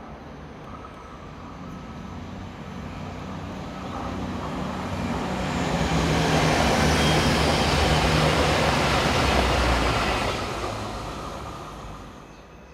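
A three-car V/Line VLocity diesel multiple unit approaches and passes at speed, its diesel engines droning under the rush of wheels on the rails. The sound builds to its loudest about six to ten seconds in, then fades as the train goes by.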